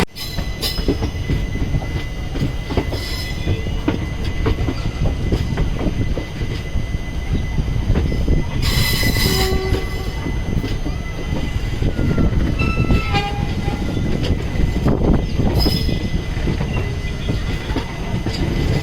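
Passenger train running on the track: a steady rumble and rattle of wheels and coaches, with a few short, sharp hissing or screeching bursts, the loudest about nine seconds in.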